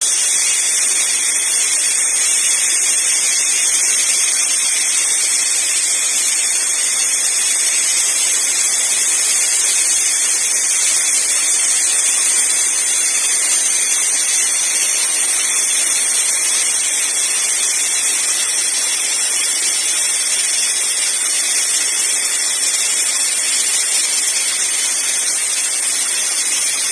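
Laser metal-welding machine running with a steady, high-pitched hiss.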